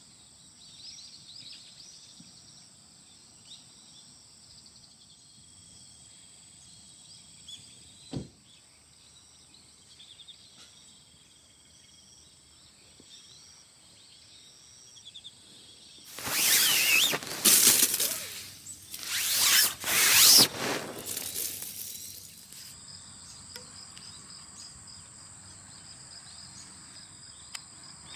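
Autumn insects chirping steadily in high, thin trills. A single short knock about eight seconds in, and from about sixteen seconds in several loud rustling bursts of noise for some six seconds that drown the insects out before they carry on.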